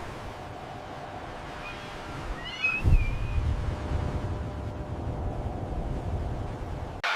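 Outdoor ambience of low wind rumble, with a short bird call of a few quick chirps about two and a half seconds in.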